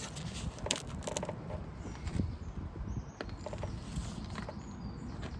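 Scattered light mechanical clicks and knocks, a handful of sharp ones, over a low steady rumble.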